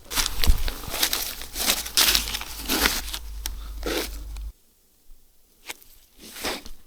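Irregular crinkling and rustling of something dry being handled and crushed. About four and a half seconds in it stops abruptly, then a few sparser rustles follow.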